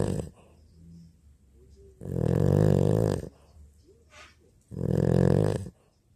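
Mixed-breed dog snoring in its sleep: two long snores about two and a half seconds apart, with the end of a third right at the start.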